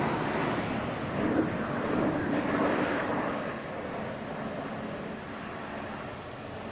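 Steady rushing noise from car-wash equipment at work, fairly even throughout and a little quieter in the second half.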